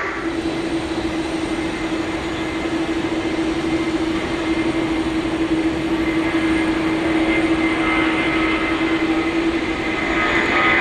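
Airbus A330-300's twin Pratt & Whitney PW4000 turbofans at takeoff power, a steady jet roar with a humming tone. It grows louder through the clip, and a higher whine builds near the end.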